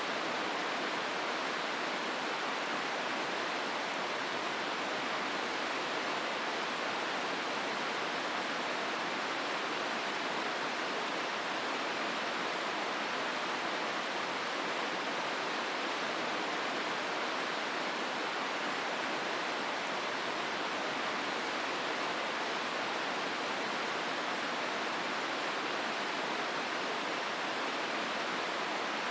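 The Hozu River's water rushing steadily through the gorge, an even, unbroken rush with no other events.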